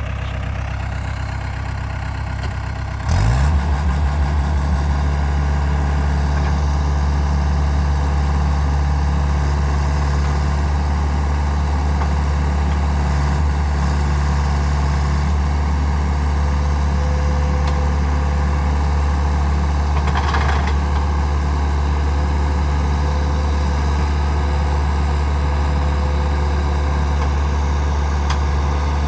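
Old dump truck's engine idling. About three seconds in it quickly revs up to a higher speed and holds there steadily.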